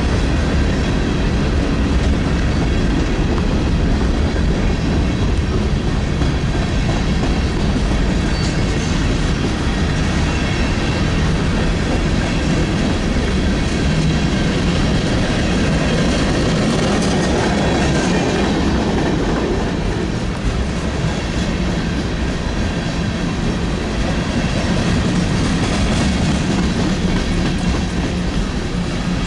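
Open-top coal hopper cars of a freight train rolling past close by: steel wheels running steadily on the rails, one loud, unbroken sound.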